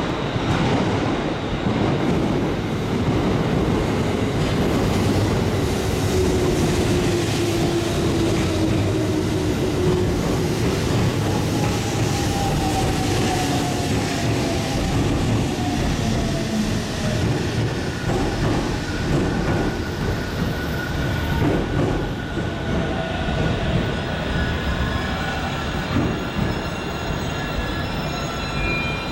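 JR Central 211 series and 313 series electric train pulling into a platform. Wheels rumble and clatter over the rails, and a whine falls in pitch as the train brakes. Steady high squealing tones come in over the second half as it slows to a stop.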